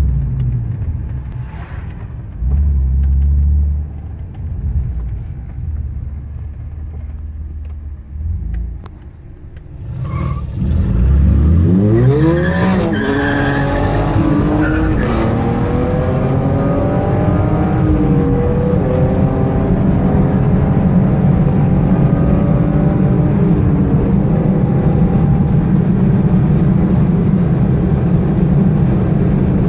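Car engine heard from inside the cabin: after a stretch of low rumble, about a third of the way in it revs hard under full acceleration, its pitch climbing, dropping back at gear changes and climbing again. It then settles into a dense, steady low road-and-wind roar at speed.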